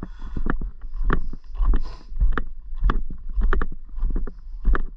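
Mini bike with a 212cc engine riding up a rough, steep trail: a pulsing low rumble with many sharp knocks and rattles from the bike jolting over the ground.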